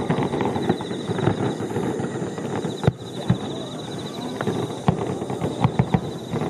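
Fireworks finale: shells bursting in quick succession with rapid crackling pops, and one big bang about three seconds in.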